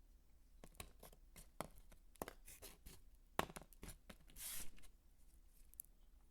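Dry soap being crumbled and crunched by hand: a quick run of sharp crackles and snaps, with a short rustling burst about four and a half seconds in.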